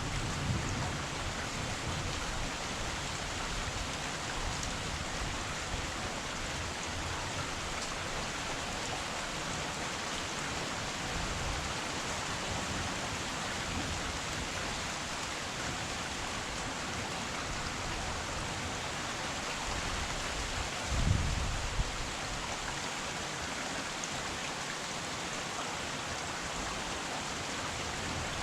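Steady rain falling and pattering on surfaces. A short low rumble comes about two-thirds of the way through and is the loudest moment.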